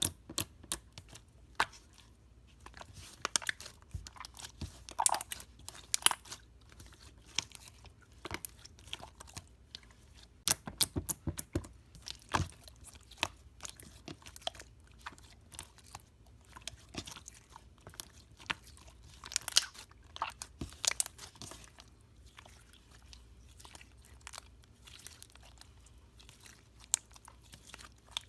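Slime being worked by hand, giving irregular sharp crackling clicks and crunches, several a second in busy stretches with short pauses between.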